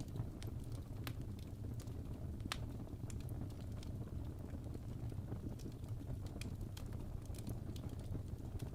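Fireplace crackling: irregular sharp pops and snaps over a steady low rumble of burning logs.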